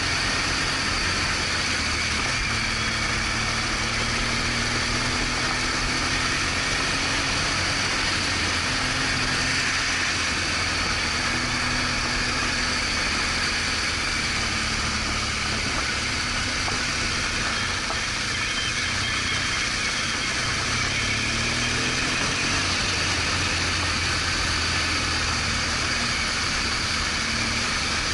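BMW R1200GS Adventure's boxer-twin engine running steadily under way, its pitch rising and falling a little, beneath a continuous hiss of wind and road noise.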